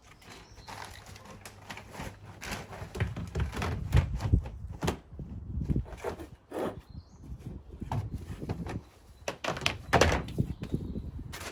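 Irregular knocks, thumps and rattles from handling garden bird feeders and seed containers, loudest about four seconds in and again near the end.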